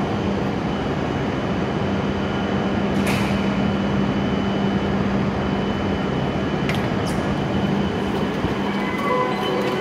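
E7 series Shinkansen train standing at the platform, its onboard equipment giving a steady hum with a low drone under the even noise of a covered station. There are a few faint clicks, about three and seven seconds in.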